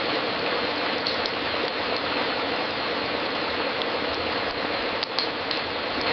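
Wood fire crackling in a fireplace: a steady hiss with a few sharp pops, the loudest about five seconds in.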